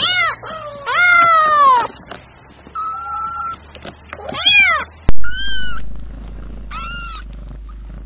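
Kittens meowing: a string of short, high mews, about six in all, with one longer falling meow about a second in. A sharp click a little past halfway is the loudest moment, and the later mews are higher and thinner.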